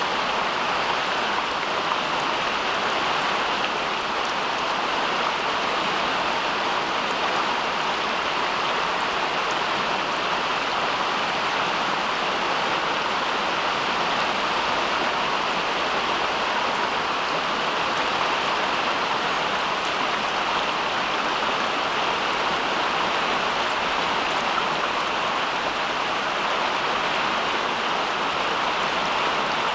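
Steady, even rushing of water, unchanging and without breaks.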